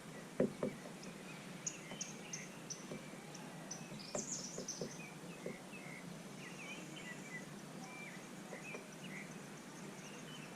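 Small birds chirping in short, high, scattered calls over a faint steady background hum, with a few sharp knocks about half a second in and again around four to five seconds in.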